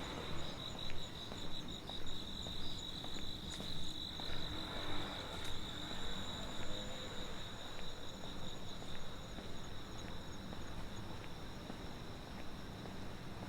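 Crickets and other insects trilling steadily in several high pitches, some pulsing rapidly, with soft regular footsteps at walking pace underneath.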